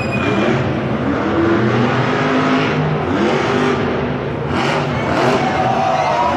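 Monster truck engine revving hard, its pitch climbing and falling back in several surges.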